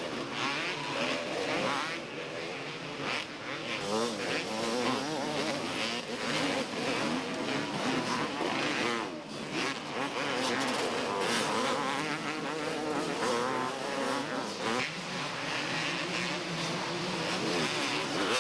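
Several 250cc two-stroke motocross bikes racing on the track, their engines revving up and down.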